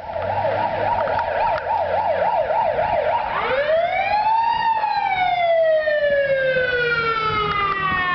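Fire engine's electronic siren on yelp, warbling fast at about four cycles a second, then switching to one wail that rises and slowly falls away before cutting off.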